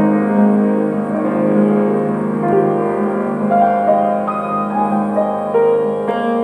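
Piano music: sustained chords with single notes moving above them at a slow, gentle pace.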